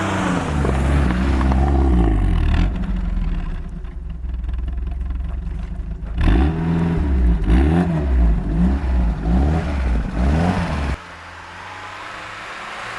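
A car engine revved up and down again and again in quick swells, dropping back to a steady idle about eleven seconds in.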